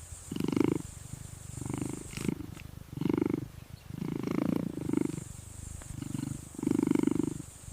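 Cheetah purring in a steady run of low pulses, about one a second.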